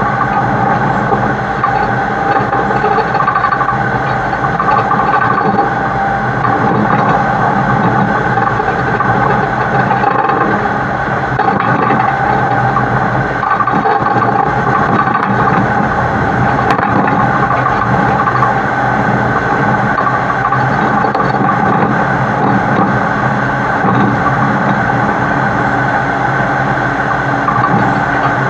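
Heavy truck hauling a super load, heard close up from its side as it drives at steady speed: a loud, even drone of engine, tyres and rolling trailer with a few steady tones running through it.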